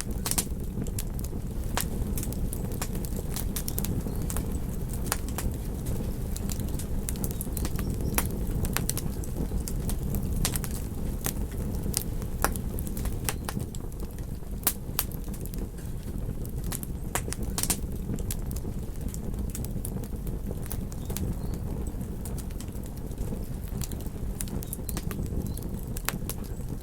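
Campfire crackling, with frequent sharp snaps and pops scattered irregularly over a steady low rumble.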